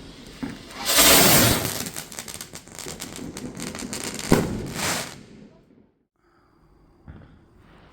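Fireworks going off: a loud burst about a second in, followed by crackling and another sharp bang about four seconds in, all stopping about five seconds in.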